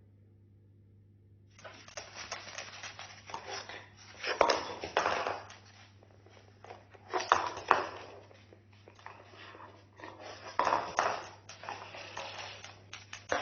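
Cockatoo chewing and shredding, an irregular crunching, crackling and rattling that starts about a second and a half in, with louder crunches around four, seven and eleven seconds in.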